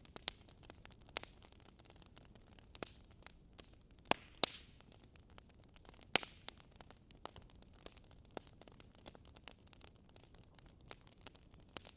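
Burning firewood crackling: irregular sharp pops and snaps over a faint hiss, with the loudest pops about four and six seconds in.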